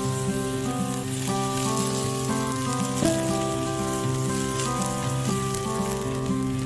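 Pork belly sizzling and its fat crackling over a wood fire, under background music of sustained notes that change about once a second.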